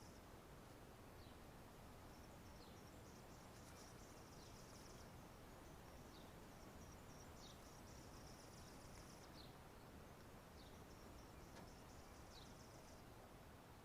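Faint outdoor ambience: insects chirping in pulsed bouts of about a second, with brief high chirps every second or two over a low hiss.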